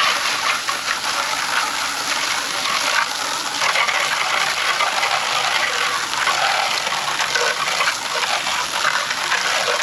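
Water spray rinsing cleaner off a car's tyre and wheel, a loud, steady rushing hiss.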